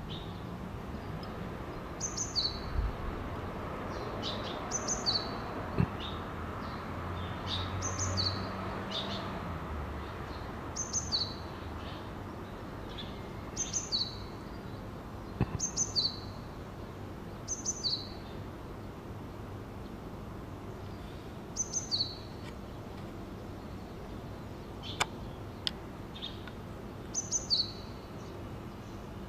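Japanese tit singing: short two-note phrases, a high note dropping to a lower one, repeated every two to three seconds. It is calling by a nest box, taken for a male either calling the female out to feed or declaring its territory.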